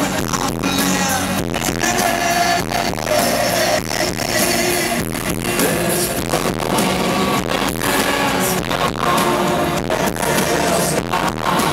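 Live pop band playing a song, with singing over it.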